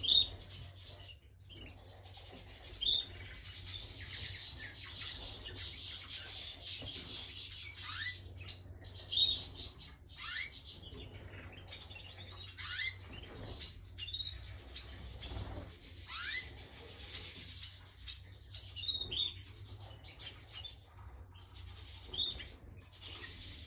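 Canary singing and calling in an aviary: a continuous scratchy twitter with short upward-sweeping chirps every second or two, over a steady low hum.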